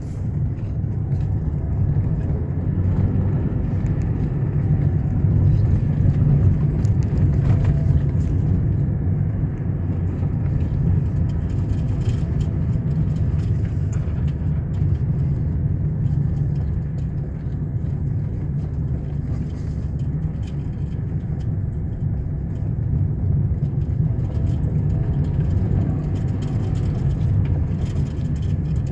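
A motor vehicle running steadily with a low engine rumble, with scattered clicks and knocks throughout; it is a little louder from about three to eight seconds in.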